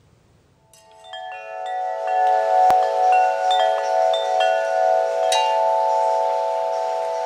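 Wind chimes ringing, coming in about a second in: several metal tones struck one after another and left ringing together. A single sharp click sounds nearly three seconds in.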